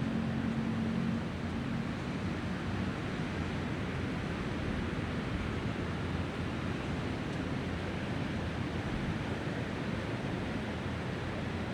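Steady wash of Mediterranean sea surf mixed with wind. A low motor hum fades out about a second in.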